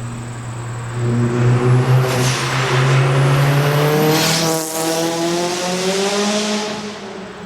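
Mk4 VW GLI's big-turbo 1.8T four-cylinder engine accelerating hard in a pass-by. Its note climbs as it approaches, drops in pitch as it goes past a little over halfway through, then keeps pulling and fades as it moves away.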